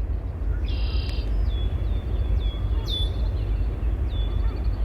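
A bird calling: a short buzzy note, then a run of brief high notes that each drop sharply in pitch, about two a second, over a steady low rumble.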